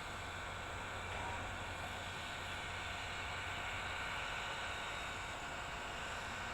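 Steady hiss with a low hum from Reading & Northern 425, a steam locomotive, standing or running without a distinct exhaust beat.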